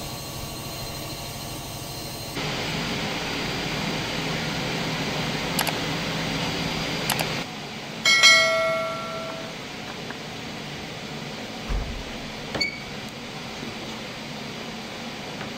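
Woodworking shop sounds: a steady hiss with a few light clicks and knocks, and about halfway a single metallic strike that rings with a clear pitch and dies away over about a second.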